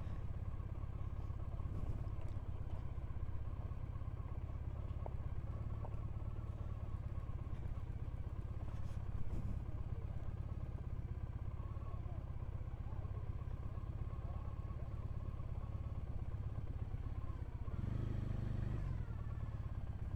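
Triumph Bonneville parallel-twin motorcycle engine running steadily, heard from the bike, picking up briefly near the end.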